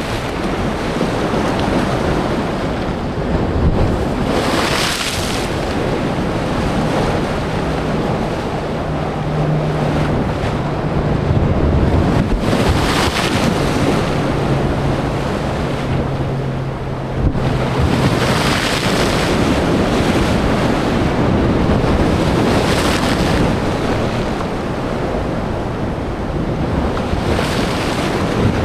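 Sea surf breaking on rocks and throwing spray, a continuous roar with five louder crashes spaced a few seconds apart. A steady low engine hum, typical of traffic on the nearby coast road, runs under the surf from about six seconds in until about twenty.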